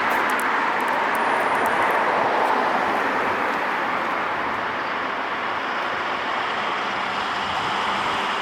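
Steady rush of passing road traffic, the tyre and engine noise of vehicles on a city street.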